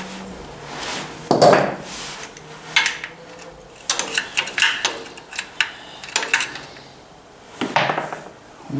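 Hand tools and metal parts clinking and knocking against each other, in irregular separate strikes with a busier cluster midway, as oil pan bolts are worked loose from underneath a Ford 800 tractor.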